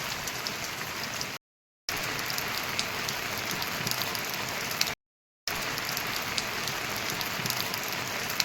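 Steady rain falling, an even hiss with many sharp ticks of individual drops. The sound cuts out completely twice, for about half a second each time.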